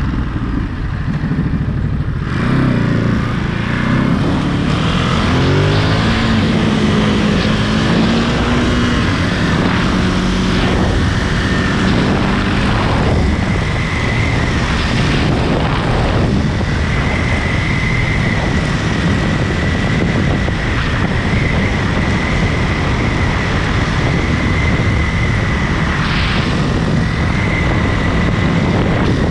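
Ducati Monster 937's L-twin engine running under way, revs rising as the bike accelerates a couple of seconds in, then settling to steadier running. A thin steady high whine joins about halfway through.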